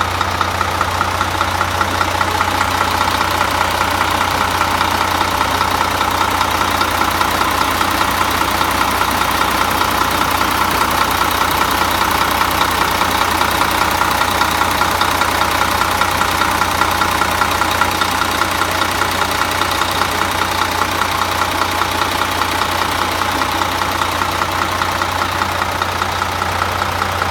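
Scania diesel engine of a Higer Touring coach idling steadily, with no revving.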